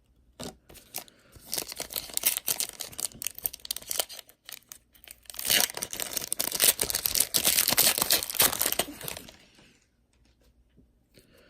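A foil trading-card pack wrapper is torn open and crinkled in the hands. It comes in two stretches of crackling, one in the first half and a louder one in the second half, then stops near the end.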